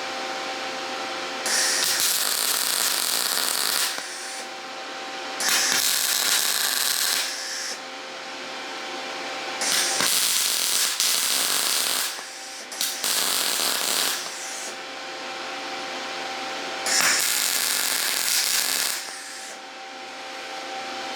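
Titanium Unlimited 200 welder MIG welding an exhaust pipe: five bursts of arc crackle, each about two seconds long. The welder's cooling fan hums steadily between them.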